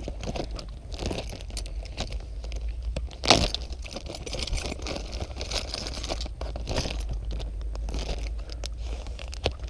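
Crinkling, crunching and scraping of close handling, with one sharp knock about three seconds in, over a steady low rumble.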